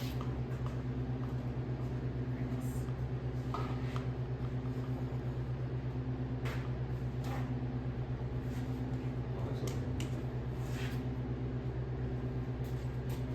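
A steady low machine hum with a fast, even flutter, and a few faint clicks over it.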